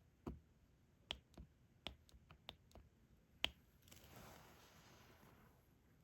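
Faint, irregular clicks of a diamond-painting drill pen tapping drills onto the sticky canvas, about eight in the first three and a half seconds, followed by a soft rustle.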